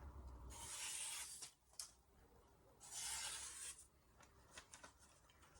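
Kitchen knife edge slicing through a sheet of paper, twice, each a short hissing cut of about a second, with a few light clicks between: a sharpness test of the edge off the 3000 grit stone.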